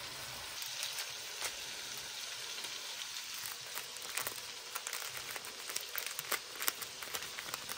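Sliced onions and tomatoes frying in oil in a wok, a steady sizzle. Scattered crackles and clicks come more often in the second half.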